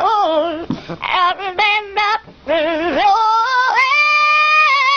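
Yellow-naped Amazon parrot singing a song in a human-like voice: short wavering phrases with a heavy vibrato, then a long held note lasting about a second near the end.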